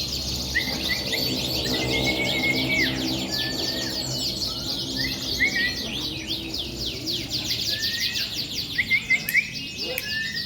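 Several domestic canaries singing at once: dense, fast trills with short whistled notes woven through.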